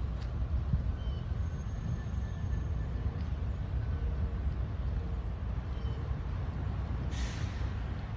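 Outdoor city-park ambience: a steady low rumble of traffic, with a few faint bird chirps and a brief hiss about seven seconds in.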